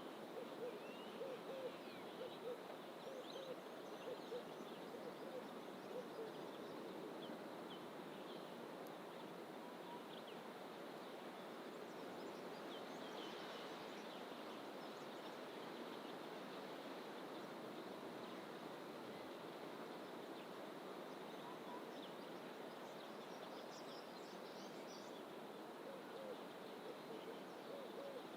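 Birds calling in dense coastal bush. A low hooting note repeats several times in the first few seconds and again near the end, and small birds give scattered high chirps throughout. Under them runs a steady hiss of distant ocean surf.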